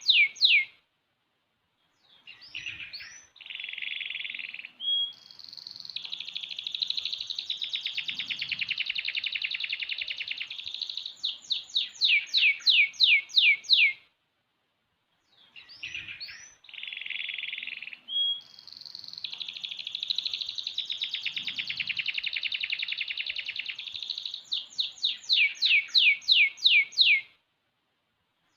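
Young domestic canary, about six months old, singing long song phrases of rapid trills and buzzy rolls, each ending in a run of quick sweeping notes. Two phrases of about twelve seconds each, separated by short pauses.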